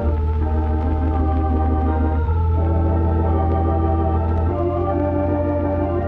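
Background film-score organ music: held organ chords over a steady bass note, changing about every two seconds.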